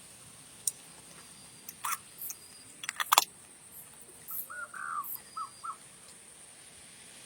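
A few sharp knocks, the loudest cluster about three seconds in, then a short run of four bird call notes, with a steady high hiss underneath.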